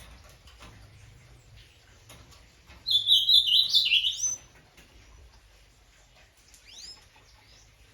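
A bird singing a loud, quick phrase of short, stepped notes lasting about a second and a half, starting about three seconds in, followed by a few faint rising chirps near the end.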